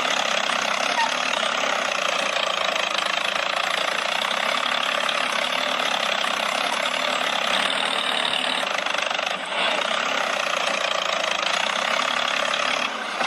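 A small electric motor on a DIY model machine running steadily with a thin, even buzz, briefly dipping once in the middle and once near the end.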